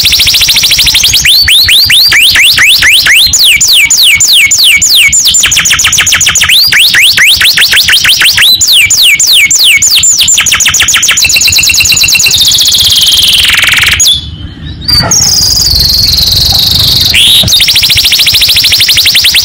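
Domestic canary singing a long, loud song of rapid trills in the 'ngerek' style. Fast rolls alternate with runs of repeated rising notes at about five a second, with a short gap about fourteen seconds in.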